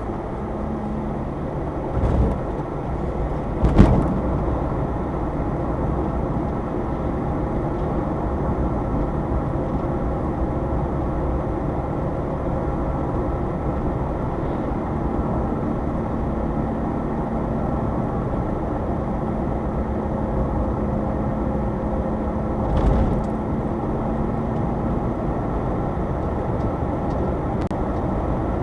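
Subaru Sambar kei van driving, its rear-mounted engine and road noise heard steadily from inside the cab. A couple of knocks, as from bumps in the road, come in the first four seconds, and a softer one about 23 seconds in.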